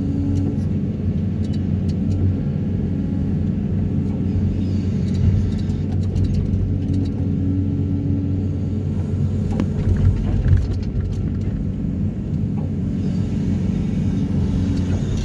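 Excavator diesel engine running steadily, a low drone with a few light clicks and knocks around the middle.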